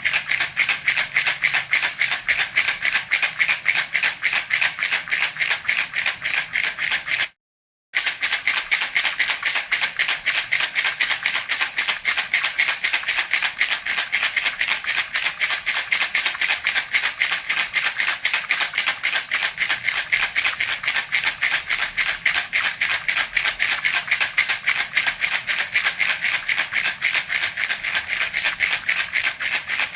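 Baby rattle (jhunjhuna) shaken in a steady, fast rhythm, its beads rattling several times a second. The sound cuts out completely for about half a second around seven seconds in, then carries on unchanged.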